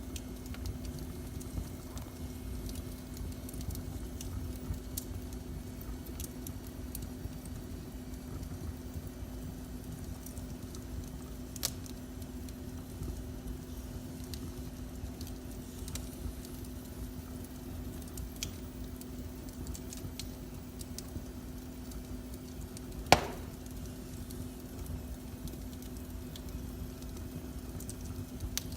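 Wood fire crackling in a fireplace: scattered small sharp pops and snaps, with one much louder pop about four-fifths of the way through, over a steady low hum.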